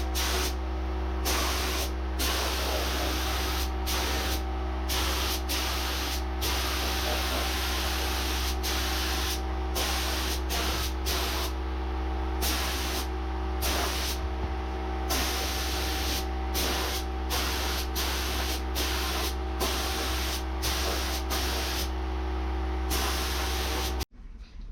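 Compressed-air spray gun spraying epoxy primer in repeated short passes, the hiss starting and stopping every second or so over a steady machine hum. The sound cuts off suddenly near the end.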